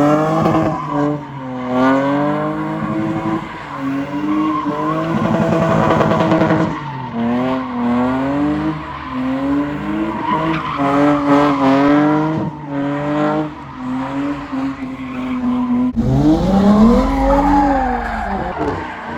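A car engine revving hard, over and over, while the tyres spin and squeal on the pavement in a burnout or drift. About three-quarters of the way through, the sound changes abruptly to a deeper rumble with another rising and falling rev.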